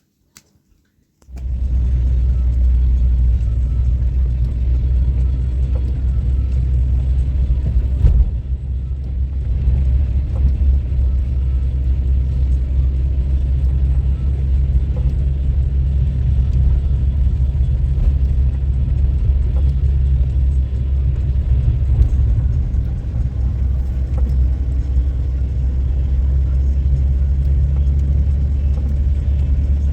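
Steady low rumble of a motor vehicle running, starting abruptly about a second in.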